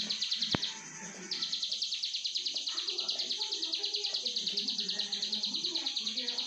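Prinia (ciblek sawah) singing a high, rapid, buzzy trill, with a short break about a second in before it resumes and carries on. A single sharp click about half a second in.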